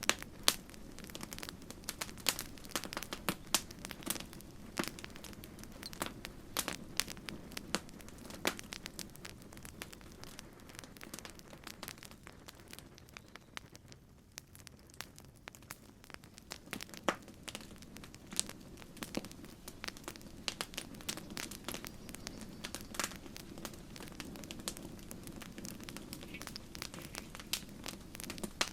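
Wood campfire crackling, with irregular sharp pops and snaps over a steady low rush of the flames; the crackling thins out for a few seconds about halfway through.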